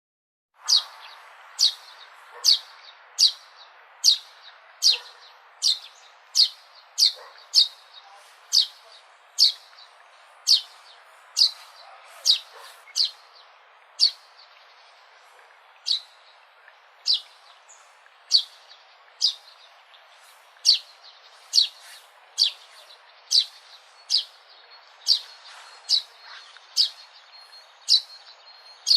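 A sparrow chirping over and over: single short, sharp, downward-sweeping chirps at roughly one a second, starting about half a second in, over a faint steady background hiss.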